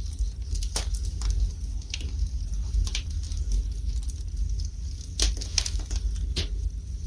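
Fire burning in a fireplace, crackling with irregular sharp pops over a low steady rumble.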